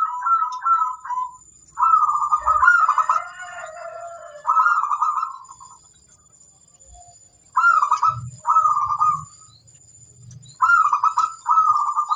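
Zebra dove (perkutut) cooing: short phrases of rapid, pulsing coos repeated with pauses between them, several in a row. A second call overlaps about three seconds in.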